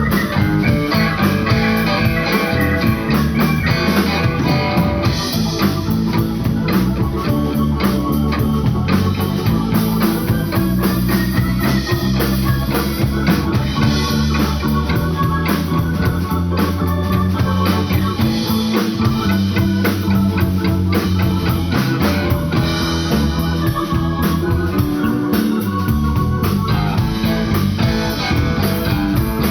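Live blues-rock band playing an instrumental passage: electric guitar over bass and a drum kit, with a steady beat.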